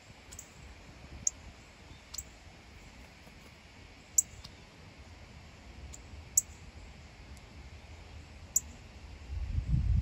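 A bird's sharp, high chip calls: about six single notes spaced a second or two apart, over a faint outdoor background. A low rumble comes in near the end.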